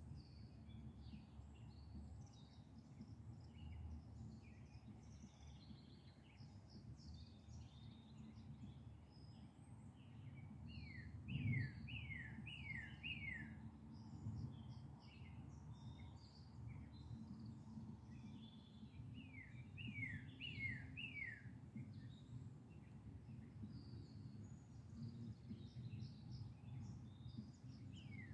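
Songbirds chirping, one of them repeating a quick run of four or five falling notes about every eight seconds, over a steady low rumble. A brief low bump stands out about eleven seconds in.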